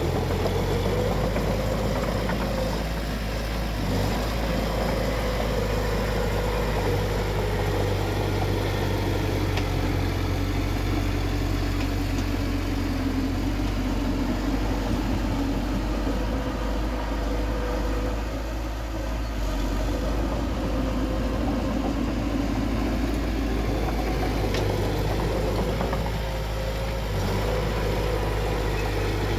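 Bulldozer's diesel engine running steadily, its note sagging a little around the middle and picking up again near the end.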